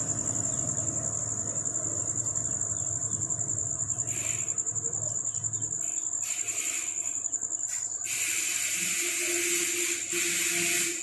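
An insect's steady, high-pitched trill runs throughout. Several short bursts of rustling hiss come in from about four seconds in, the longest between about eight and ten seconds.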